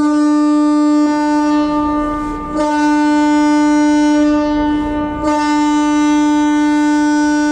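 Shipyard signal horn sounding a long, steady blast, with two brief dips, signalling that launch preparations for the bulk carrier are complete.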